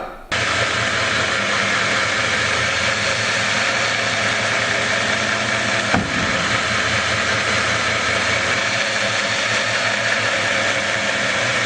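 Shop-built 2x72 belt grinder running steadily and grinding metal, with one brief knock about six seconds in.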